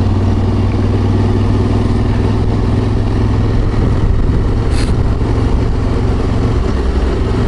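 Ducati 748 90-degree V-twin engine running steadily while the motorcycle cruises along, under a constant rush of wind and road noise.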